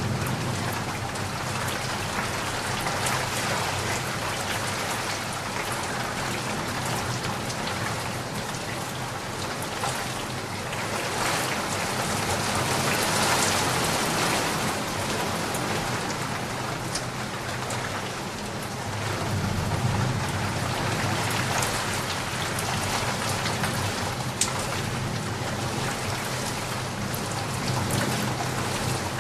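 Steady rain falling and pattering on surfaces, with a low rumble of distant thunder swelling about two-thirds of the way through.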